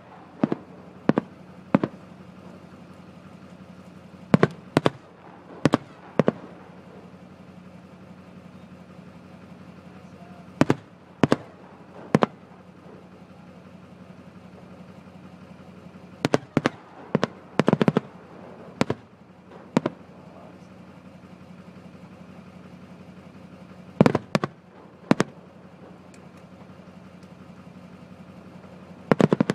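New Year's fireworks shells bursting: sharp bangs in clusters of two to seven, the groups several seconds apart, over a steady low hum.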